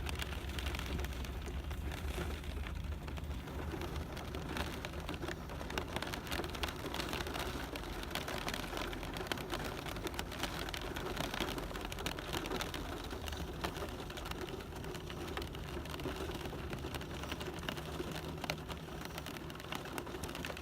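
Steady rain falling: an even rush dense with the small ticks of individual drops striking.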